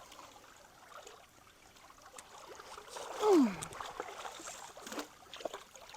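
Creek water running and trickling through a culvert. About three seconds in, one short sound falls steeply in pitch, and a few faint knocks follow near the end.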